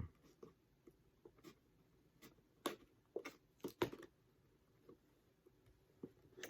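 Faint, scattered clicks and rustles of a cardboard action-figure box being opened with scissors, the tape seals slit carefully. The loudest clicks come a little before four seconds in.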